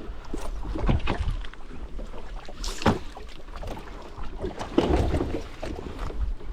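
Wind buffeting the microphone and water against a small open fishing boat at sea, with a few sharp knocks, the clearest about three seconds in and another around five seconds.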